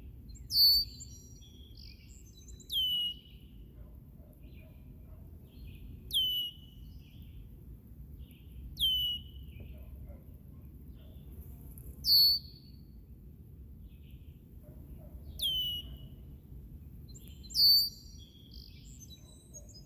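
Red-winged blackbird calling over and over, a sharp downward-sliding whistled note about every three seconds, with some calls carrying a brighter extra note. A steady low rumble runs underneath.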